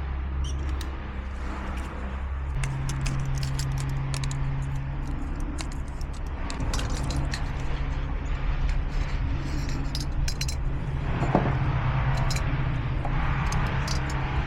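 Small gasoline engine running steadily, its speed stepping up about two and a half seconds in and holding there, with light metallic clicking over it. It keeps running after its carburettor was cleaned and a missing float needle spring was replaced, the fault that had made it start and then die.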